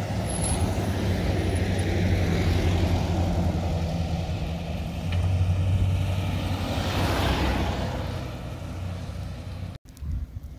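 Gusty wind buffeting the microphone in a snowstorm, a heavy rumbling rush that swells and eases with each gust. It cuts off abruptly near the end, leaving a much quieter background.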